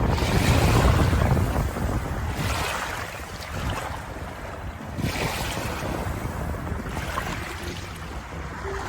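Ocean waves washing in, each wave surging and fading every three to four seconds, the strongest one at the start.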